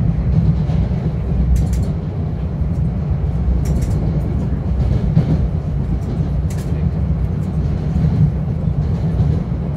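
Metro-North commuter train running along the track: a steady low rumble with a few brief clicks, heard from inside the passenger car.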